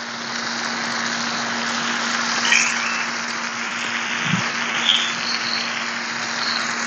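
Minced mutton and tomato-onion masala sizzling steadily on a hot tawa over a fire, swelling over the first second after the raw mince goes in, then holding.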